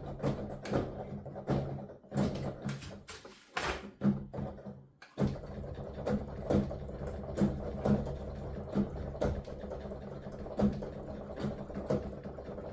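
Keys of a piano keyboard played with the sound going only to headphones, so all that is heard is the knocking of the key action in the uneven rhythm of a piece. A low steady hum runs underneath, and the keys pause briefly about four seconds in.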